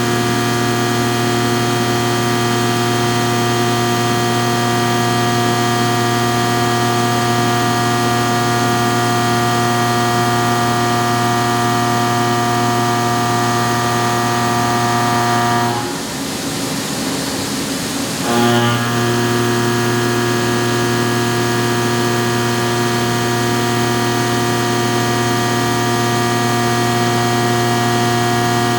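CNC machining center milling a flute into a Remington 700 rifle bolt with an indexable carbide cutter under flood coolant: a steady machine whine of many tones. About two-thirds of the way through, the whine drops out for about two and a half seconds, leaving a hissing noise, then comes back.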